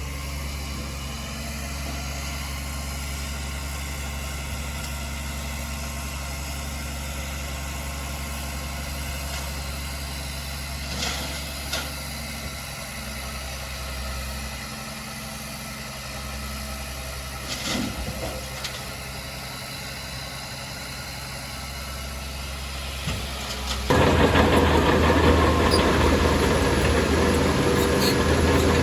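Diesel engine of heavy earthmoving machinery running at a steady low idle, with a few short knocks. About 24 s in it turns suddenly much louder, with a rough rattling noise.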